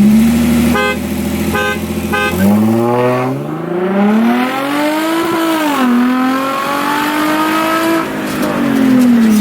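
A car horn gives three short beeps as a race start signal. A car engine then revs hard, rising in pitch for about three seconds, dipping briefly, holding high and falling off near the end.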